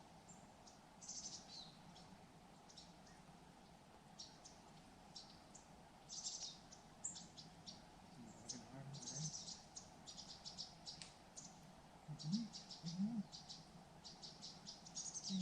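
Small birds chirping in quick high notes, sparse at first and busier and more continuous through the second half, with a few faint low sounds underneath.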